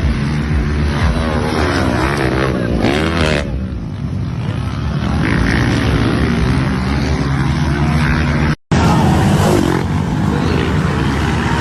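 Motocross dirt bike engines running and revving, with pitch rising and falling. There is a brief total dropout about eight and a half seconds in, where the recording cuts.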